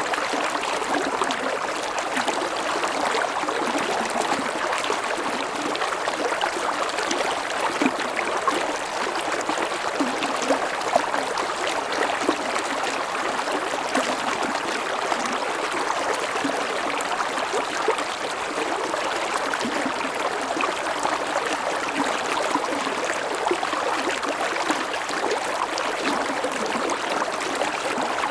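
Mountain stream flowing steadily over rocks, a constant rushing with small splashes and gurgles throughout.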